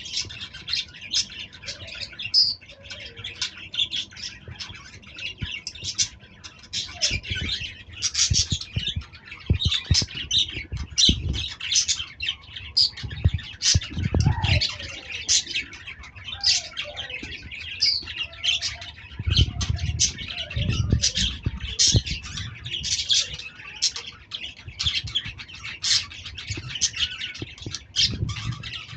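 Lovebirds chattering: a dense stream of rapid, high-pitched chirps and squawks from several birds at once. Low thumps come in now and then, mostly in the middle stretch.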